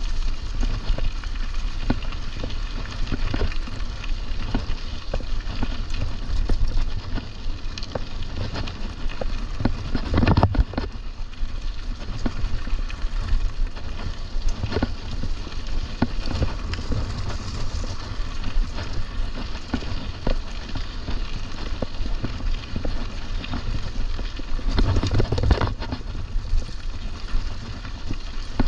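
Mountain bike riding on a trail: wind buffeting the microphone over the steady noise of tyres on the ground, with scattered clicks and knocks from the bike. There are louder bumps about ten seconds in and again near the end.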